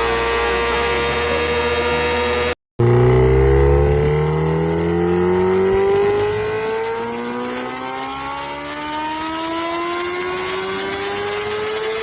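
A superbike engine accelerating hard, its exhaust note climbing steeply in pitch with an upshift about halfway through, then climbing again. Before it, a steady high drone cuts off abruptly about two and a half seconds in.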